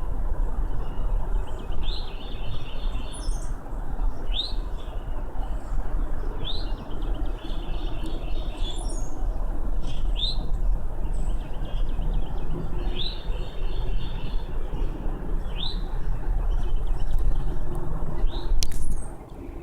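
A songbird singing the same short phrase over and over, about every two to three seconds: a quick high slur followed by a short trill. Under it runs a steady low rumble, and a sharp click sounds near the end.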